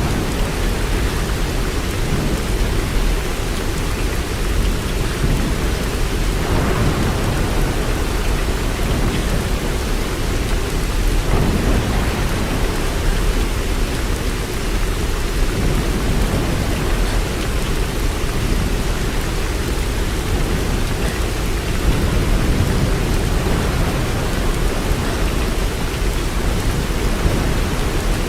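Steady rain falling, a continuous even hiss with a strong deep low rumble underneath.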